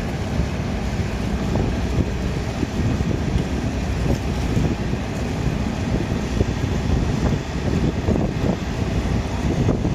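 Wind buffeting the microphone: a heavy, gusty low rumble with no clear engine note.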